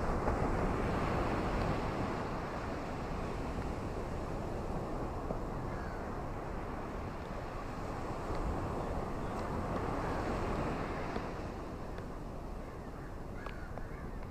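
Ocean waves washing onto a shore, a continuous rushing noise that swells at the start and again about two-thirds of the way through.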